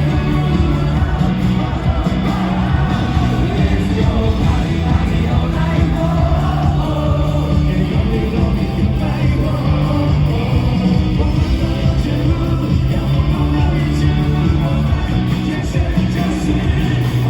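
Live rock band with a lead singer, playing a loud, driving pop-rock song.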